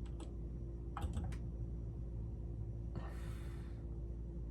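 A few light clicks and taps from hands working at a metal lathe, a cluster of them about a second in and a short rustle about three seconds in, over a steady low hum.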